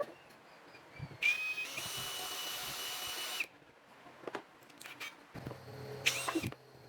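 Power drill spinning up and running for about two seconds, its pitch rising as it starts, then a second short burst near the end, with a few knocks of handling between.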